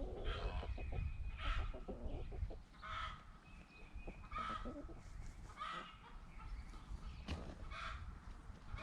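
Chickens clucking, short calls repeating about once a second, with a single sharp click about seven seconds in.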